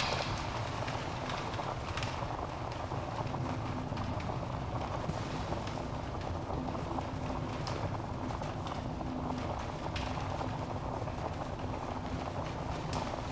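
Wood logs burning in a fireplace: a steady low rush of flames with sharp crackles and pops every two to three seconds.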